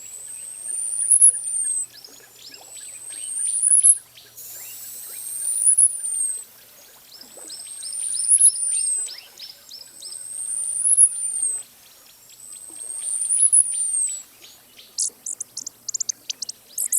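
Costa's hummingbird singing: six thin, very high whistles, each rising and then falling, about one every two and a half seconds. Fainter chirps of other birds run beneath, and a quick series of high ticks comes near the end.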